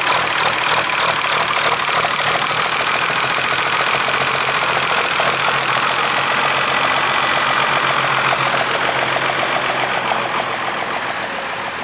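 Tractor engine running steadily under load, growing quieter over the last couple of seconds.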